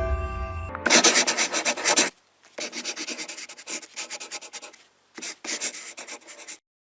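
Rapid rubbing strokes in several bursts of up to about a second each, separated by short pauses, following the fading tail of music.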